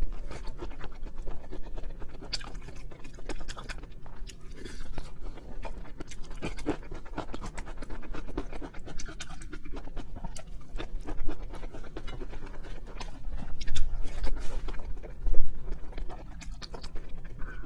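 A person chewing seafood, close to the microphone: a steady run of wet clicks, smacks and crunches, louder for a few bites near the end.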